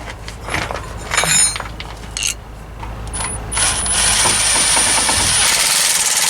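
Metal parts clinking a few times, then compressed air hissing steadily from a pneumatic shop tool, with a thin high whistle over it for a couple of seconds, stopping abruptly.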